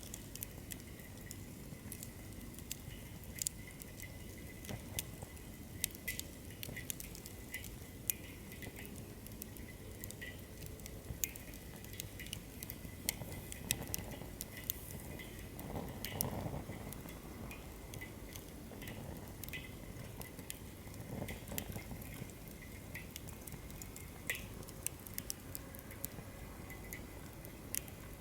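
Firewood burning in a campfire, crackling with frequent sharp pops and snaps. About halfway through, the flames swell into a low rushing roar for a few seconds, with a shorter swell a little later.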